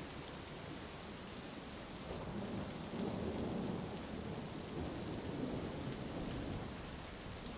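Steady heavy rain with a low rumble of thunder that swells about two seconds in, rolls on for several seconds and eases off near the end.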